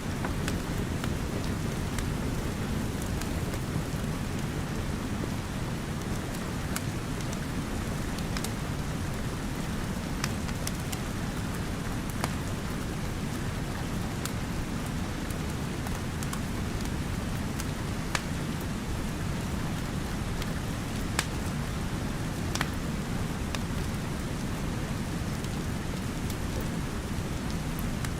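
Steady rain with a deep, even rumble, and a fireplace fire crackling with scattered sharp pops.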